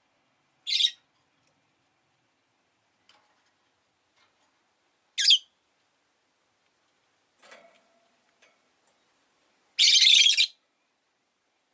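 Rosy-faced lovebird calling: two short, shrill chirps, then a longer harsh call near the end.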